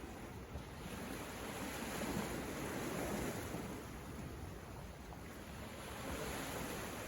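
Sea surf washing onto the shore, a continuous rushing wash that swells and eases gently, with no single sharp crash.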